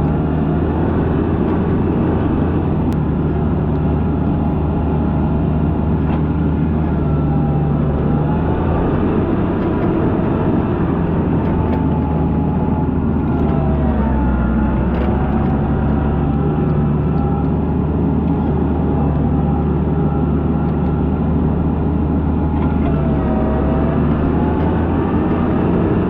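TYM 574 compact tractor's diesel engine running steadily under load while pushing snow, with a whine above it that rises and falls in pitch.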